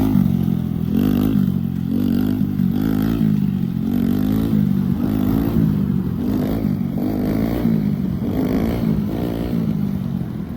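Small single-cylinder mini motorcycle engine being revved up and backed off again and again, its pitch rising and falling about once a second, the throttle work of wheelie riding.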